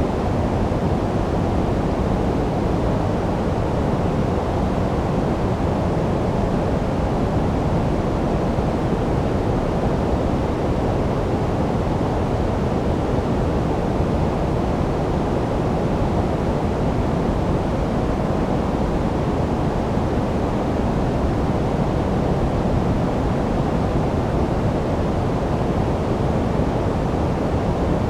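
Steady synthetic white noise for sleep, deep rather than hissy, with most of its weight low and little treble. It is even and unchanging throughout.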